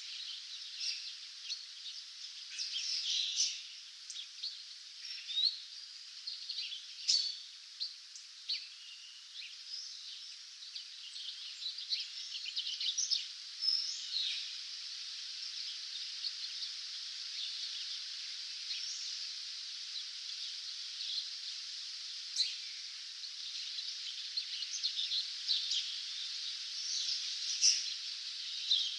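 Dawn chorus of many songbirds, short chirps and trills overlapping throughout over a steady high-pitched hiss.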